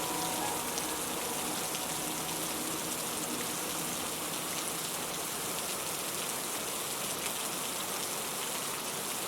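Steady rain falling, with scattered drops tapping on surfaces.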